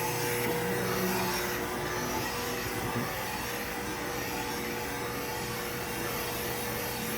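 Steady machine-shop noise: a motor-driven machine running with an even whirring hiss and a constant hum.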